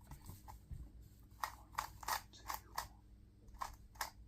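Plastic clicks of a 2x2 speed cube being turned, separate sharp turns at an irregular pace of a few a second, more frequent from about a second and a half in.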